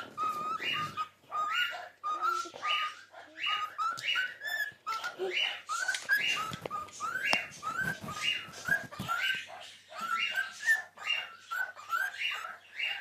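Cockatiel chirping over and over in short rising calls, roughly one or two a second.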